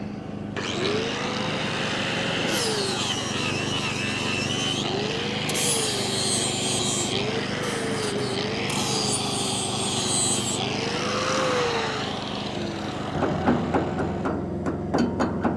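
Angle grinder with a flap disc grinding down a weld on steel for about twelve seconds. Its whine climbs as it spins up, dips and recovers several times as the disc is pressed on, and winds down near the end, over the steady hum of the engine-driven welder.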